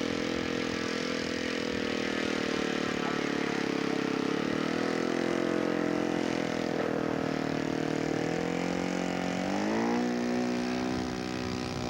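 Radio-controlled model airplane engine running in flight, a steady buzz whose pitch sags and rises as the plane flies around, climbing sharply about nine seconds in.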